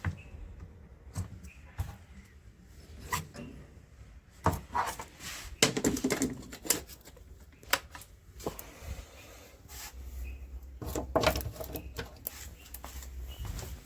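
Handling noise: scattered clicks, knocks and rubbing, busiest about five to seven seconds in and again about eleven seconds in.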